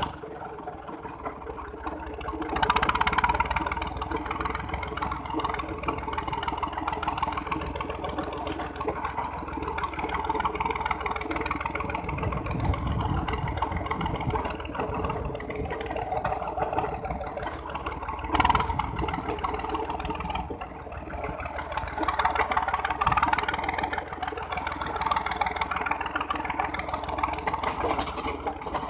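Tractor engine running steadily as it drives, its level swelling and easing a little now and then.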